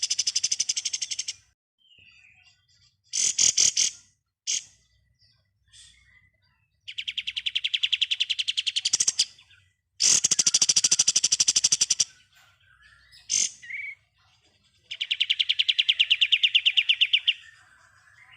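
Kapas tembak songbird singing its fast machine-gun-like 'ngebren' trill: four long rattling trills of about two seconds each, with short sharp chattering calls between them.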